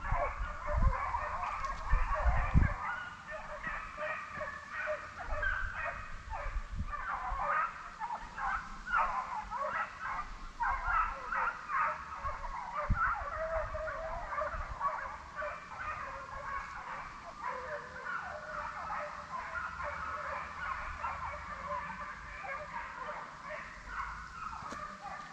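A pack of deer hounds baying and yelping on a hot track, many voices overlapping continuously, with a few low thumps in the first few seconds.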